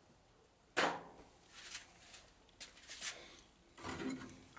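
Vending-machine parts being handled during disassembly: one solid knock about three-quarters of a second in, then several lighter clicks and taps.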